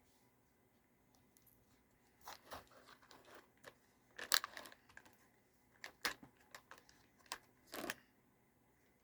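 A Chobani Flip yogurt cup being handled and opened: scattered bursts of crinkling and tearing with sharp clicks. The loudest comes about four seconds in.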